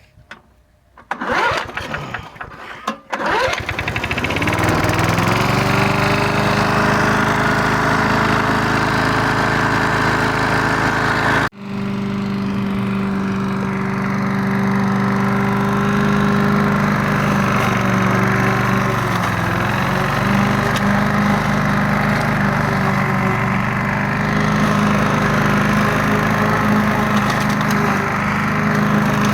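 Briggs & Stratton engine on a Rover lawn mower cranking for about two seconds, catching and settling into a steady run. The sound drops out for an instant about eleven seconds in, then the engine runs on steadily.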